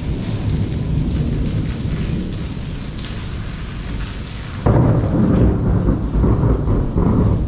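Heavy rain falling through a thunderstorm with a low rumble under it. About five seconds in, a loud, uneven roll of thunder starts suddenly and rumbles on for nearly three seconds.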